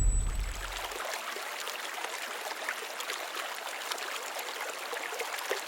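Running water of a stream, a steady rush with small trickling splashes. A deep boom from just before fades out in the first second.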